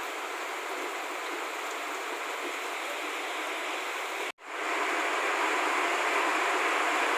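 Steady rushing noise of running water, broken by an abrupt cut about four seconds in, after which it returns louder.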